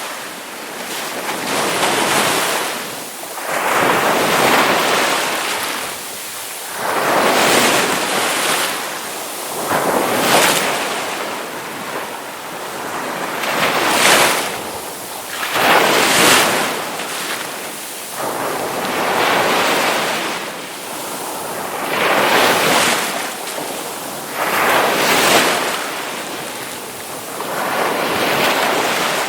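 Ocean waves breaking on a shore, the surf washing in and falling back in repeated swells every two to three seconds.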